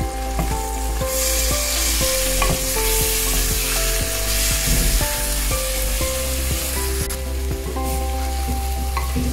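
Chicken, onions and spices sizzling in hot oil in a clay pot while a wooden spatula stirs them, with light scrapes and taps of the spatula against the pot. A soft tune of held notes plays underneath.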